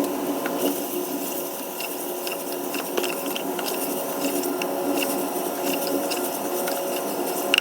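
Chicken frying and sizzling in a pan of oil with onion and spices, with scattered short clicks.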